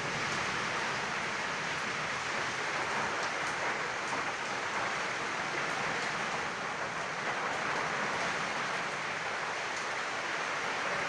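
Heavy rain falling steadily, an even hiss with no thunder heard.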